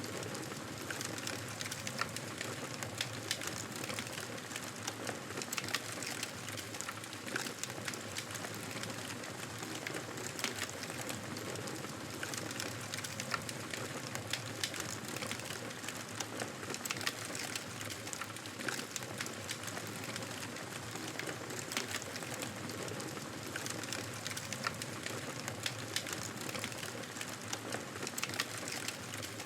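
Wood fire crackling in a fireplace: a steady hiss with irregular sharp pops and snaps.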